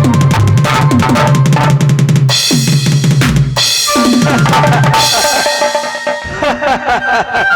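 Stage accompaniment music with a drum kit playing a fast, busy beat under held melodic tones. The beat breaks off twice, about two and a half seconds in and again about five seconds in, each time under a bright hissing wash.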